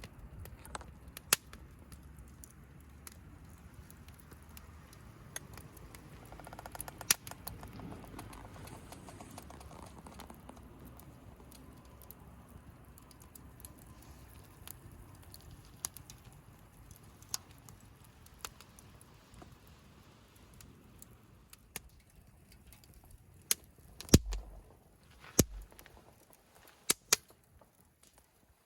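Wood campfire crackling: sparse sharp pops at uneven intervals, with a cluster of louder pops and a couple of dull knocks near the end.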